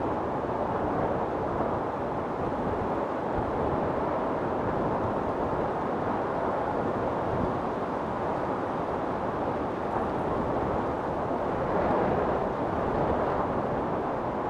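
Wind storm blowing steadily as a dense rushing noise, swelling a little near the end.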